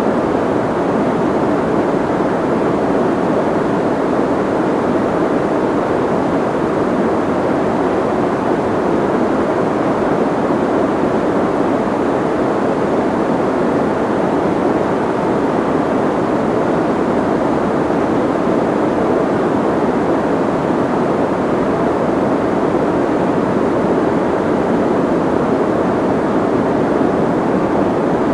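Steady, unchanging soft white noise, weighted toward the low and middle range with little hiss at the top: a muffled, even rushing.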